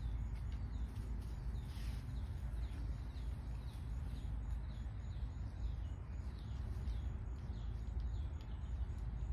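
A bird repeating short, high, falling chirps, a few each second, over a steady low rumble.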